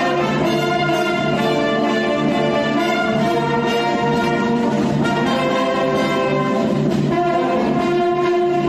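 Brass band playing a melody, with trumpets and trombones sounding held notes over a steady low part.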